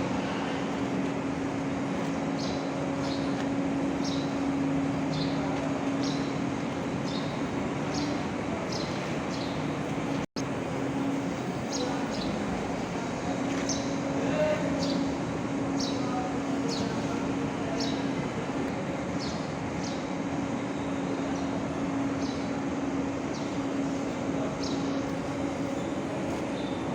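Escort AE4.3312-3A diesel engine of an Escort Hydra 14-ton crane running steadily at an even speed, with faint short high chirps repeating over it. The sound cuts out for an instant about ten seconds in.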